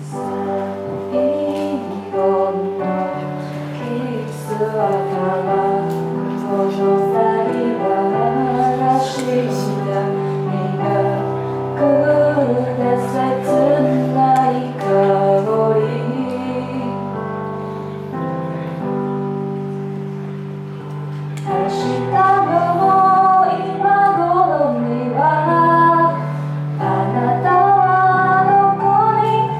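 A woman singing a slow Chinese ballad over an instrumental backing of held chords and bass notes.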